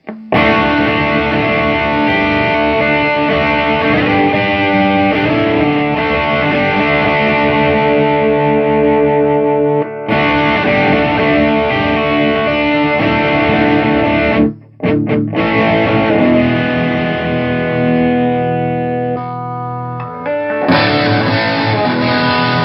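Electric guitar played through an Orange Super Crush 100 amplifier into a 4x12 cabinet: sustained chords and riffs, with short breaks about ten and fifteen seconds in.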